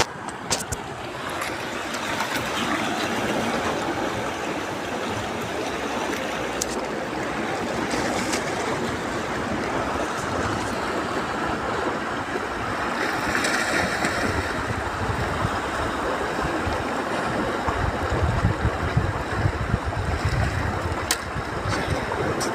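Steady rush of water, with wind buffeting the microphone as low rumbles in the last few seconds.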